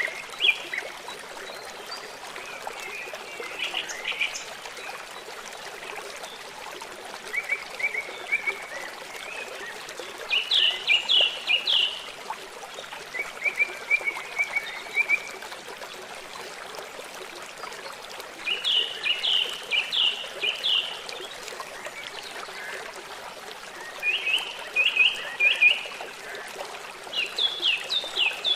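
Short bursts of rapid, high chirping calls, each a quick run of a few notes, repeating every few seconds over the steady rush of running water.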